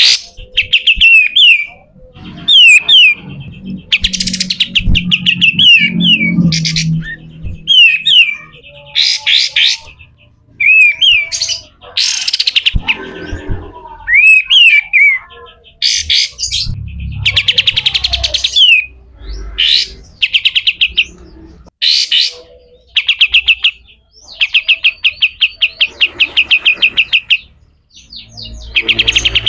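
Kapas tembak (songbird) singing its harsh, rapid chattering song: fast runs of quick down-slurred notes, each run a second or two long, separated by short pauses.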